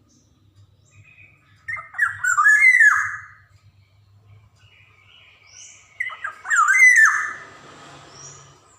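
Black-naped oriole (Javan kepodang emas) calling in two phrases, about two seconds in and again about six seconds in. Each phrase is a quick run of sweeping whistled notes; the second ends in a harsh rasp.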